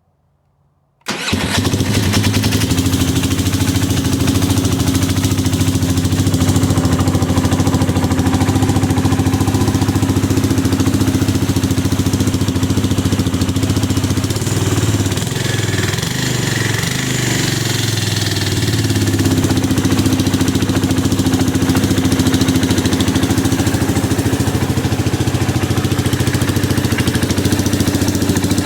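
Supercharged Polaris engine starting about a second in, then idling steadily, with the engine speed wavering up and down briefly midway.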